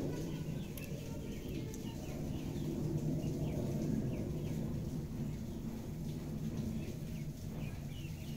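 Birds chirping in short, high, repeated calls over a steady low rumble of outdoor background noise.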